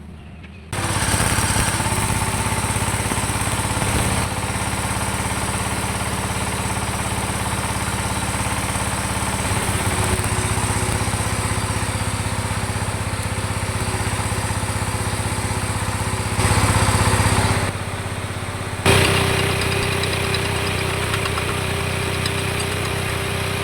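Arc (stick) welding with a hard-iron electrode, building up the worn, broken teeth of a pinion gear: the arc strikes about a second in and runs on as a steady, loud buzzing hiss. It breaks off for about a second two-thirds of the way through and is struck again.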